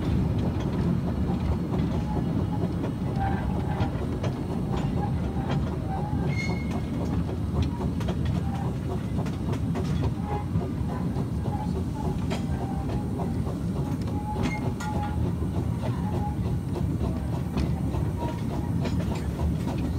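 Miniature railway train running along the track, heard from an open passenger car: a steady low rumble of wheels on rail with scattered clicks.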